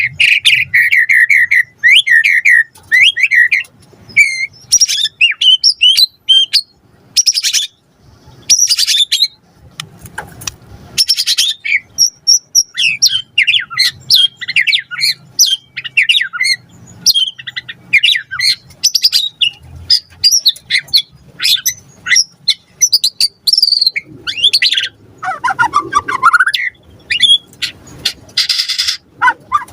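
White-rumped shama singing a long, varied song of rapid whistled phrases and trills, broken several times by short harsh rasping notes.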